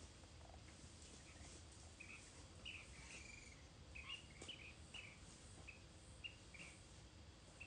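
Faint bird chirping: a string of short, high notes starting about two seconds in, over quiet background hiss.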